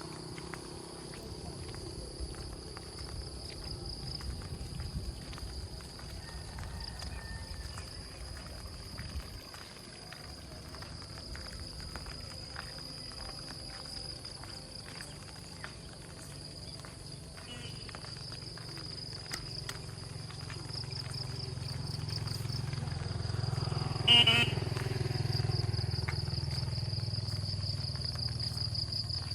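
Rural outdoor ambience: insects chirring steadily in a high, pulsing tone, while a motor vehicle's engine rumble swells in the second half, with one short horn-like beep about 24 seconds in.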